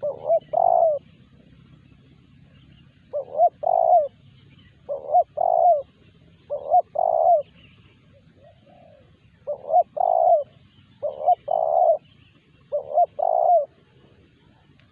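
Spotted dove (terkukur) cooing: a short phrase of two or three notes, the last one longer, repeated seven times at intervals of about one and a half to two seconds.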